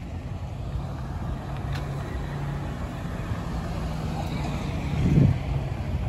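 A vehicle engine idling with a steady low hum, and a brief louder rumble about five seconds in.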